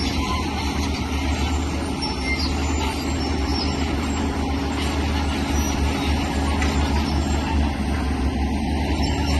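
Diesel engine of heavy earthmoving machinery running with a steady low drone and a constant mechanical clatter.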